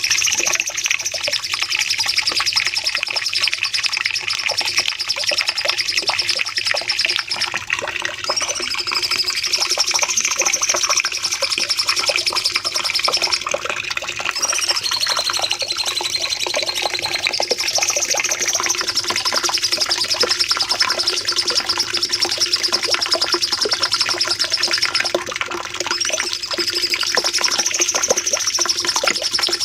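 Cucak cungkok singing long, unbroken runs of rapid, high-pitched chattering song, with only brief dips between phrases. A faint steady hum runs underneath.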